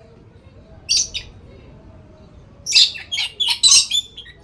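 Pet lory (nuri parrot) calling: one short shrill call about a second in, then a quick run of several loud, harsh shrieks near the end.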